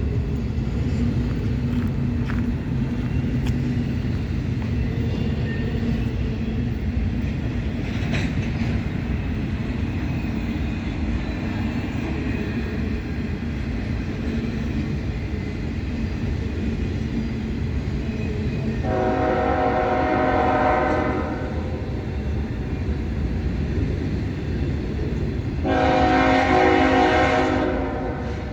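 Freight trains rolling past with a steady low rumble. A diesel locomotive's K5HL air horn sounds two blasts of a few seconds each, about two-thirds of the way through and near the end; the second is louder.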